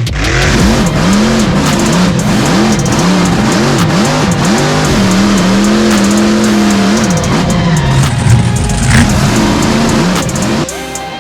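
Mega truck engine revving hard and repeatedly, its pitch rising and falling about twice a second as the throttle is worked, and held high for about two seconds midway. Near the end the engine drops away and music is left.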